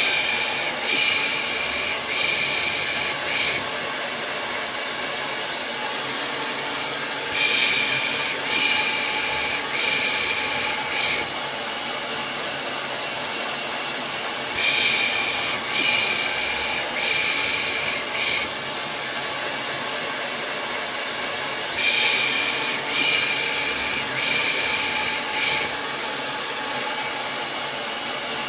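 Hair dryer running steadily as white noise, with a person's shushing ('shh') laid over it in sets of four, about a second apart. The sets come roughly every seven seconds, four times in all, as a baby-soothing sound.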